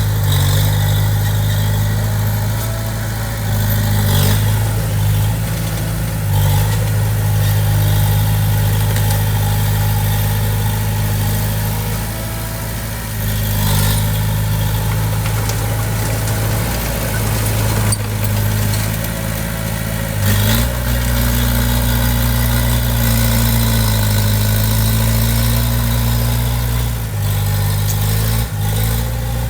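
Heavy-equipment diesel engine running steadily, its pitch stepping up a little about twenty seconds in, with a few brief knocks.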